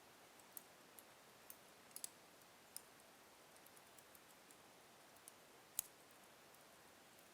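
Wood fire in a fireplace crackling softly: scattered sharp pops and snaps over a faint steady hiss, with the loudest snap about three quarters of the way through.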